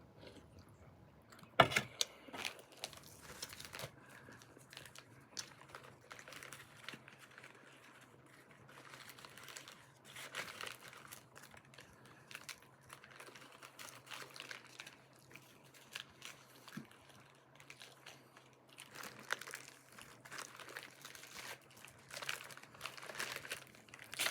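MRE packaging crinkling and rustling in irregular bursts as it is handled, with one sharp click near the start. A faint steady low hum runs underneath.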